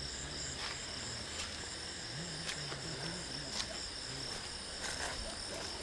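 Crickets trilling steadily, a continuous high pulsing chirr, with a few faint clicks.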